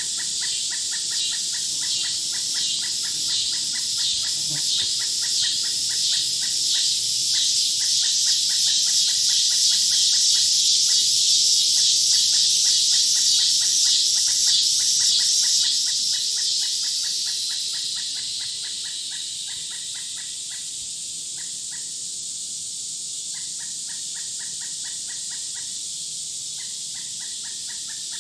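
Woodland nature ambience of insects and birds: a loud pulsing insect buzz swells over the first half and fades away about two-thirds of the way in. Under it a fast, even series of high chirps keeps going.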